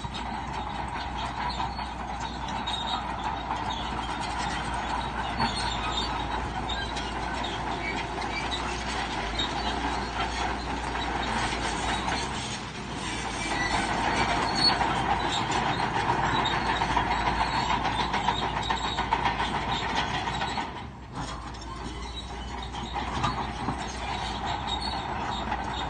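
Crawler bulldozer running, its steel tracks clanking and squealing. It grows louder about halfway through, then drops briefly before carrying on.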